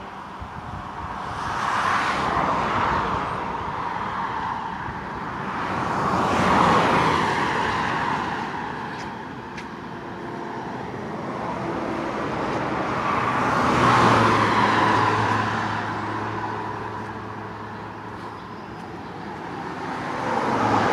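Highway traffic: cars passing by one after another, each one's tyre and engine noise swelling and fading away, the loudest passes about 2, 6 and 14 seconds in.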